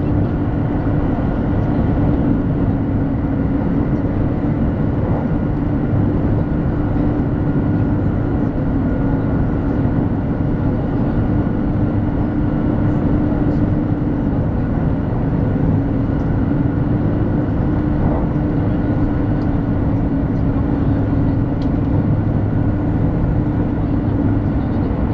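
200 series Shinkansen running at speed, heard inside the passenger cabin: a steady rumble with a constant low hum throughout.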